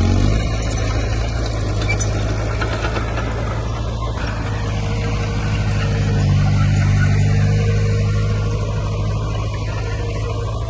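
Heavy diesel engine of earthmoving machinery running under load with a steady mechanical clatter, building a little in the middle and then easing back.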